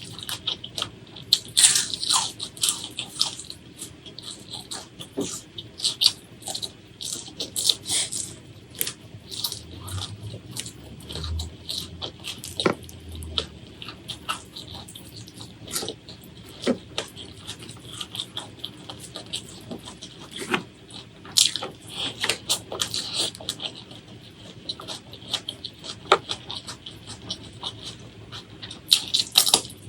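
Close-miked eating: chewing with irregular crunching bites and sharp mouth clicks.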